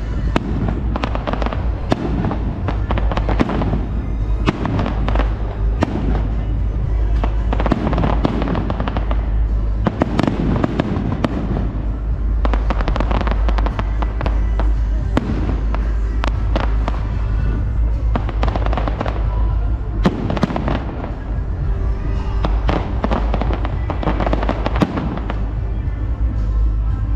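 Fireworks display: a dense, continuous run of bangs and crackling pops with a steady low rumble, under music.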